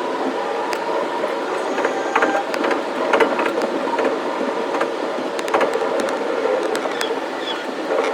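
An electric commuter train running along the track: a steady running noise with a hum, and frequent short sharp clicks from the wheels on the rails.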